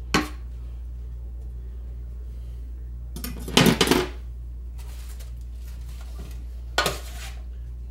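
Kitchen utensils clinking and clattering against a pan and plate while food is served: one sharp clink at the start, a longer bout of clatter midway, and another clink near the end.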